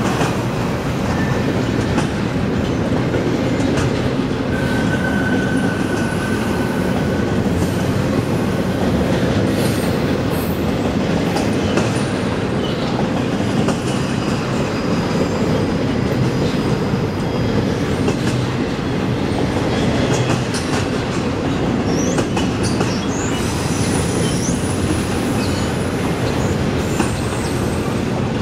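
Double-stack intermodal freight cars rolling past: a steady rumble of steel wheels on rail, with scattered clicks and a few brief, faint high-pitched wheel squeals.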